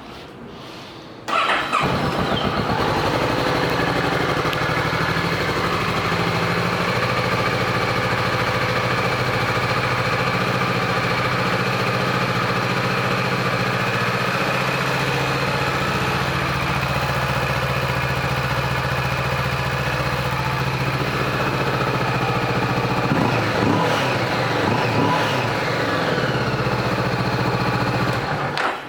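2015 Kawasaki Vulcan S's 649 cc parallel-twin engine starting about a second and a half in and settling into a steady idle, with a few light revs near the end.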